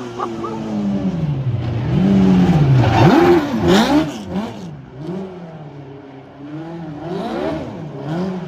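Mini truck's twin Suzuki Hayabusa motorcycle engines revving up and down over and over, loudest a few seconds in and easing off through the middle.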